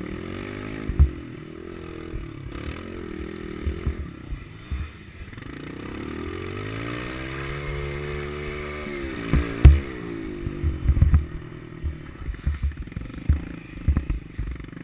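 Small single-cylinder four-stroke pit bike engine running and revving, its pitch climbing for a few seconds past the middle and then dropping off. Several loud, sharp thumps break in, the loudest just after the revs fall.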